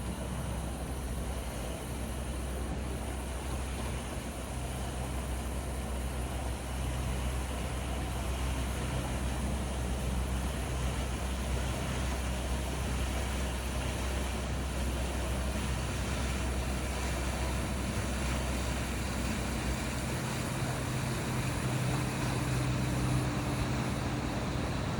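An engine running steadily with a low drone; the low hum shifts slightly about twenty seconds in.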